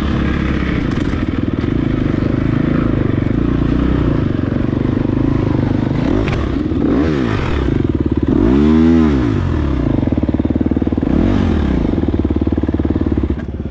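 Off-road dirt bike engine running hard, its pitch rising and falling several times as the throttle opens and closes, with the strongest rev a little past halfway.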